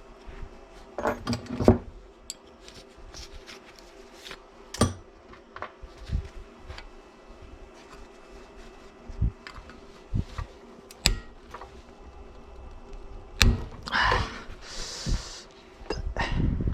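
Scattered clicks and knocks of small parts and tools being handled, with a short rushing noise about fourteen seconds in.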